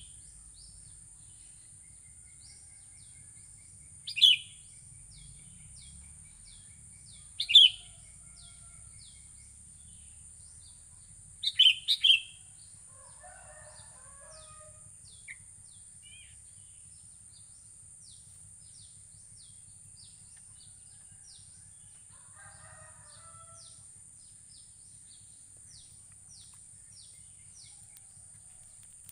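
Sooty-headed bulbul (kutilang) calling: short loud notes about four and seven seconds in and a quick pair around twelve seconds. Underneath are a steady high hiss and many faint, quick descending chirps.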